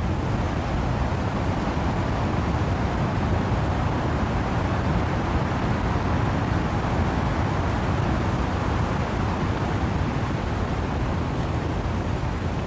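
Wind through trees with rain: a steady, even rushing noise, heaviest in the low rumble.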